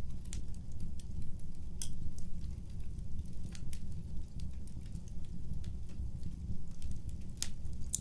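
Wood fire burning: a steady low rumble of the flames with irregular sharp crackles and pops from the burning logs, a louder pop about two seconds in and another near the end.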